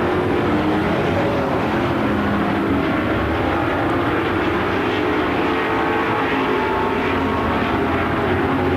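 Engines of a field of Super Truck dirt-track race trucks running at speed around the oval. Several engines blend into one steady drone.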